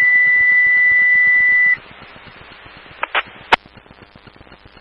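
Dispatch radio alert tone over a scanner: one steady high beep that cuts off sharply about a second and a half in, followed by faint radio hiss with two short clicks near the end.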